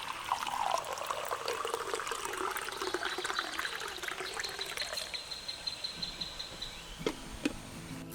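Liquid being poured into a container: a trickling splash lasting about seven seconds, then a couple of light knocks near the end.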